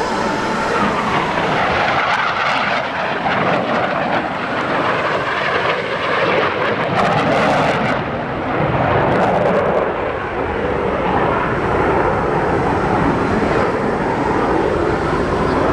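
Blue Angels jet aircraft flying past: a loud, steady rushing jet noise that swells and eases slightly, then stops abruptly.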